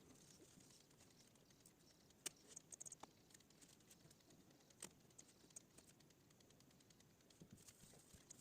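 Near silence with a few faint, sharp computer mouse clicks, one quick cluster of them about three seconds in, as answers are selected in an online test.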